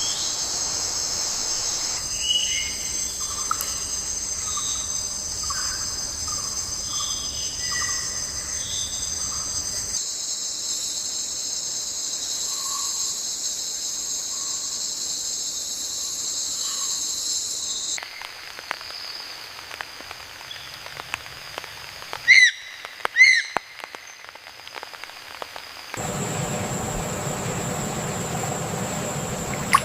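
Natural ambience of a steady, high insect chorus with scattered short bird calls. About two-thirds of the way through, the chorus drops away and two loud short calls ring out; in the last few seconds a fuller, lower background noise comes in.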